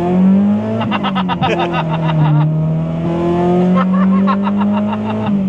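A 2001 Honda Prelude's H22 four-cylinder VTEC engine running at high revs under hard acceleration, with VTEC engaged. The revs drop at a gear shift just after the start, climb slowly, then drop at another shift near the end.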